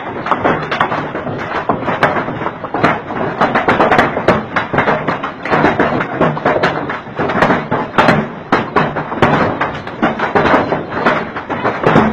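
Heavy rain pelting a hard surface: a loud, dense, irregular clatter of hits.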